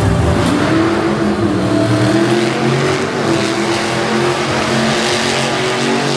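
Monster truck engine running and revving, its pitch climbing a little in the first two seconds and then holding steady.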